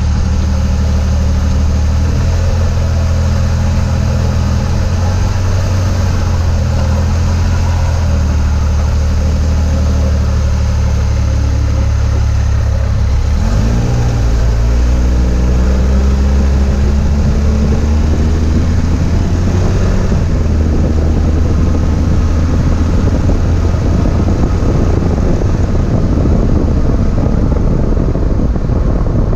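2004 Chevy Trailblazer driving, its engine running steadily, with the engine note changing about halfway through and road noise building toward the end.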